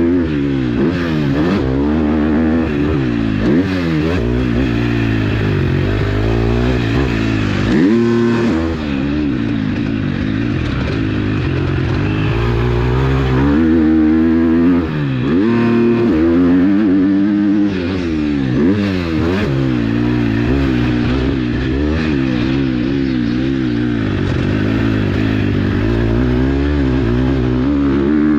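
KTM SX-F 250 motocross bike's single-cylinder four-stroke engine under hard riding, its revs rising and falling constantly as the throttle is opened and shut through corners and jumps. About eight seconds in and again near sixteen seconds, the revs drop sharply, then climb steeply again.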